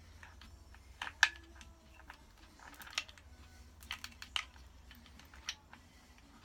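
Scattered small clicks and taps of engine parts being handled and pushed into place around the timing chain, the loudest about a second in.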